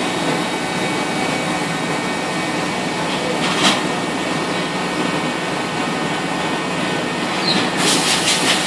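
Helix CNC lens edger running with a steady hiss and hum, one sharp click about three and a half seconds in, then rapid, evenly repeated ticking starting near the end.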